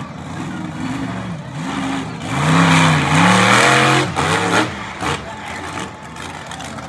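Monster truck engine revving up and down several times in quick succession, loudest from about two and a half to four seconds in, then settling back lower.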